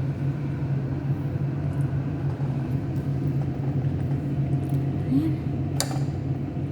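Steady low hum and rumble, with one sharp clink near the end.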